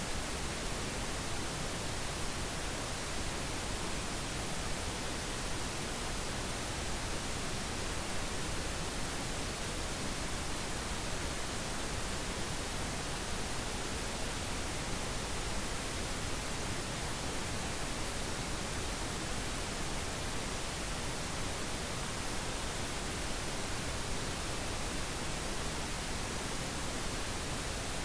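Steady, unchanging hiss of electronically generated pink noise, even across all pitches.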